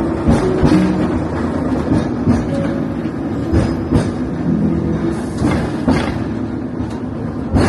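Hong Kong double-decker tram running along the street track: a steady rumble with the wheels clacking over rail joints in pairs about half a second apart.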